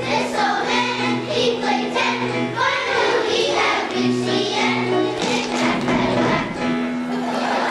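Children's choir singing with an instrumental accompaniment of held low notes.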